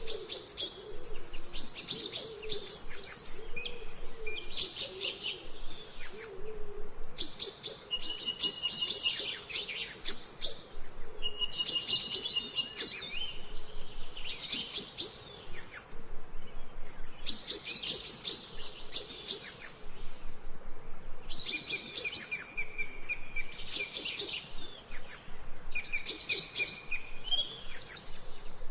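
Several songbirds chirping and trilling in quick overlapping phrases with short pauses between them, and a faint low cooing underneath in the first few seconds.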